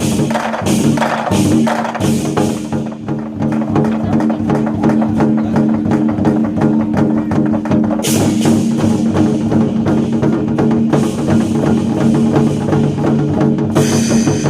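Chinese war drums beaten in fast, dense strokes over a backing music track with sustained tones, with bright crashes about halfway through and again near the end.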